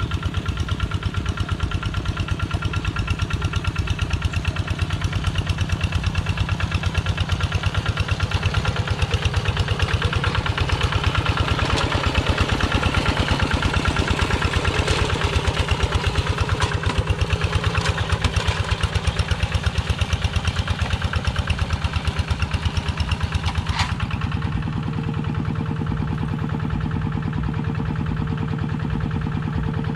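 Kubota Quick G1000 two-wheel tractor's engine running steadily with a rapid, even chugging. About 24 seconds in the sound changes: the hissy upper part drops away and a steadier hum remains, with a few light clicks just before.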